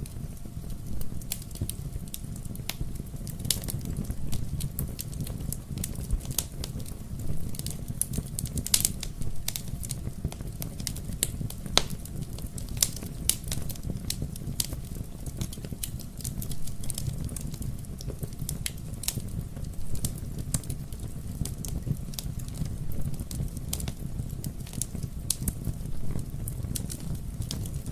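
Fire in a fireplace crackling: irregular sharp pops and snaps scattered over a steady low rumble of the flames.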